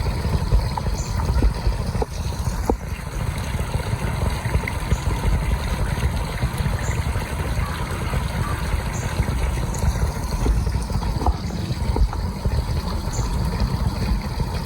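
Wind buffeting the microphone outdoors: an uneven low rumble that carries on without a break, with a few faint clicks.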